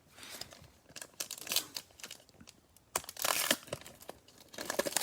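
Cellophane wrapper of a baseball card cello pack being torn open and crumpled, in several crinkling bursts, loudest about three seconds in and again near the end.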